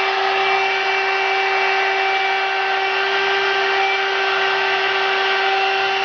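LXIR Pro One-Step hot-air volumizer brush running: a steady, high motor whine over a strong, intense rush of blown air, on its first switch-on.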